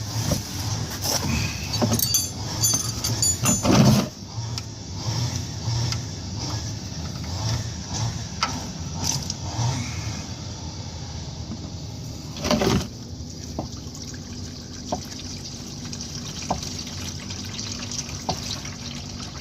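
Old engine oil from a Subaru 2.5-litre engine pouring out of the drain-plug hole into a drain pan, a steady splashing stream. There are a few metallic clicks and knocks in the first four seconds and another knock about twelve seconds in.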